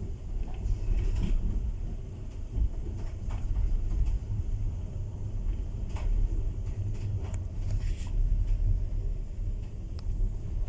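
Passenger train running: a steady low rumble with scattered sharp clicks and knocks.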